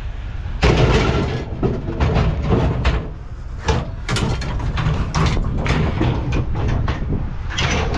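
A series of knocks and clatters, with several sharp bangs, over a steady low rumble.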